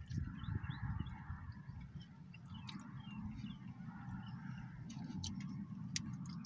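Faint bird calls and chirps over a steady low rumble.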